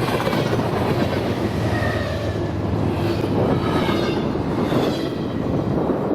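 Freight cars of a passing freight train rolling by: a steady rumble and clatter of steel wheels on the rails.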